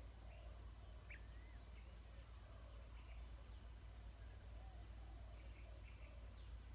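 Faint outdoor ambience: scattered short, faint bird chirps over a steady high-pitched hiss or insect drone and a low hum.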